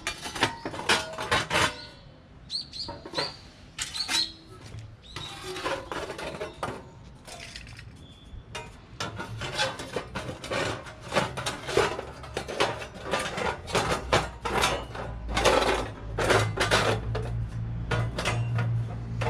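Stainless-steel sheet parts of a homemade knock-down fire pit clanking and clinking as they are handled and fitted together. The sounds are irregular metal knocks, with a few short high rings early on.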